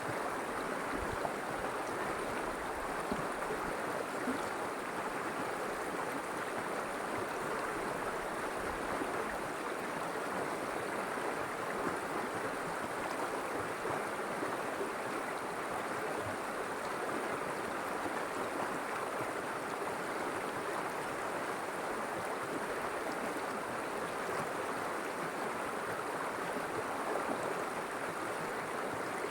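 River water flowing steadily over a stream bed, an even rushing and burbling with no change across the stretch.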